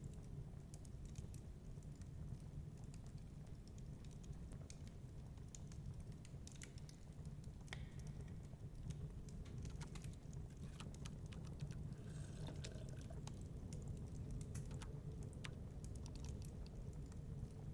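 Wood fire crackling in a fireplace: irregular sharp pops and snaps over a low, steady rumble of storm wind.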